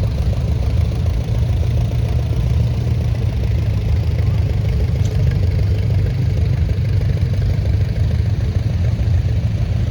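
Vintage tractor engines running steadily at low speed as they drive past in a parade, a continuous low drone with no change in pace.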